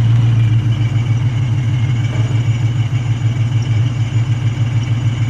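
Ford Mustang with a Borla ATAK cat-back exhaust idling steadily, a deep even exhaust note with no revving.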